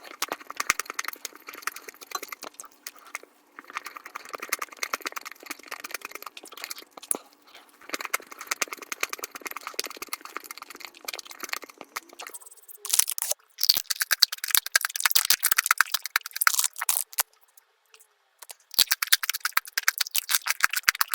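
Eating sounds sped up to five times speed: rapid, high-pitched crunching, chewing and mouth clicks from chocolate being eaten. About two-thirds of the way through the sound changes to louder, sharper crackling, broken by a brief pause near the end.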